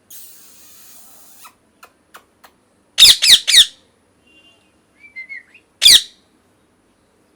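A bird squawking: three loud, harsh calls in quick succession about three seconds in, a few soft chirps, then one more loud call near six seconds. Faint hiss and a few light clicks come before the calls.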